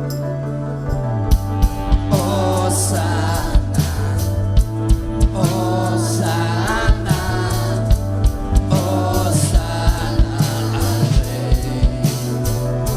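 Contemporary worship music from a band: sustained bass and keyboard notes, a drum kit coming in with regular beats about a second in, and sung melodic lines over it.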